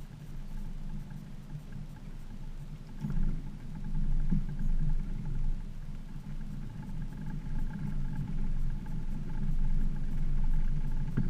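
A motor running steadily with a low hum, growing louder from about three seconds in.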